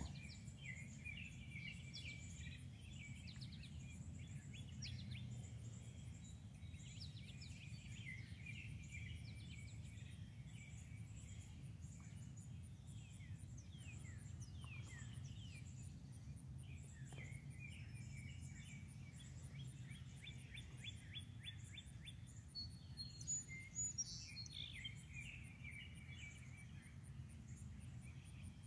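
Several songbirds chirping and singing, with a louder flurry of calls about two-thirds of the way through. Under them is a faint, fast, even insect trill high up and a steady low background rumble.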